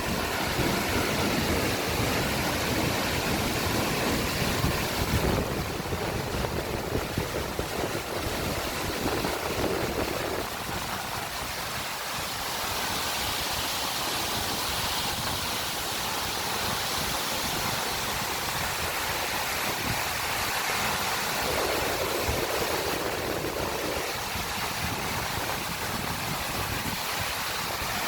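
Waterfall rushing: a steady, continuous noise of falling water.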